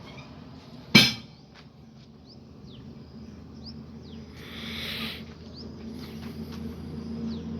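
A single sharp bang about a second in, then a short hiss about halfway through, over birds chirping and a low steady hum that grows louder near the end.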